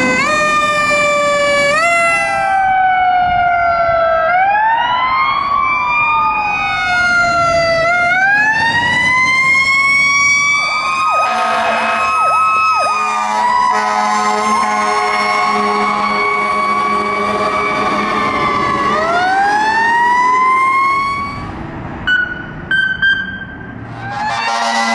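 Emergency vehicle sirens wailing, several overlapping, their pitch rising and falling repeatedly. A few seconds before the end they drop away briefly with a couple of short blasts, then a siren comes back.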